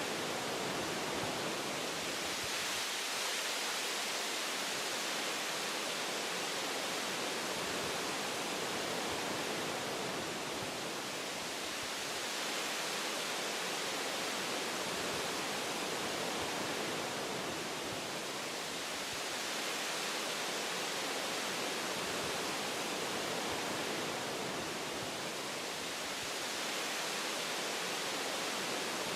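Wind blowing through tree branches, a steady rushing hiss like white noise that swells and eases a little every several seconds.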